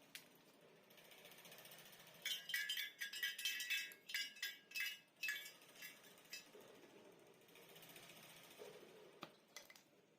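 Metal clinking and rattling: a quick run of about a dozen ringing metallic taps and knocks lasting about three seconds, then a few scattered clicks near the end.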